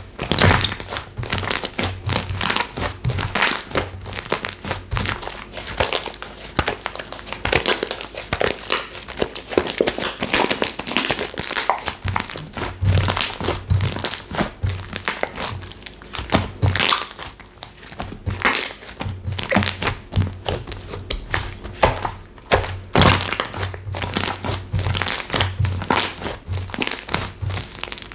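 Slime being squeezed and pressed by hand, giving a dense, irregular run of crackling, clicking pops.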